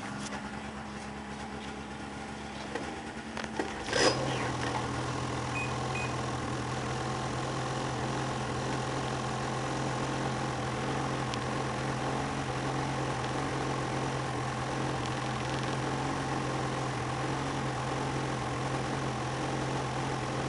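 Ski-Doo MXZ 600 E-TEC two-stroke twin snowmobile engine running just after a cold start. About four seconds in there is a sharp burst and the engine note drops lower and gets louder, then it idles steadily.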